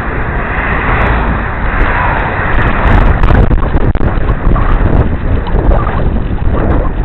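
Wind buffeting the microphone of a helmet-mounted camera on a moving bicycle: a loud, gusting rumble that swells about three seconds in.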